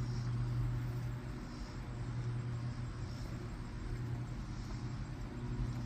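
Steady low drone of a distant engine, a lawnmower or hay tractor running, under a light outdoor noise haze.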